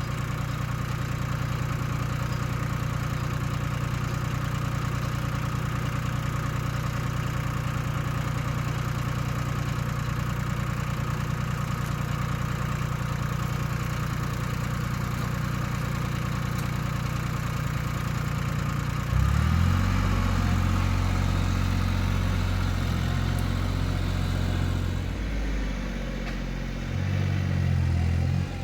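Yanmar compact tractor's diesel engine idling steadily. About two-thirds of the way through it revs up, getting louder, and its note rises and shifts up and down as the tractor works.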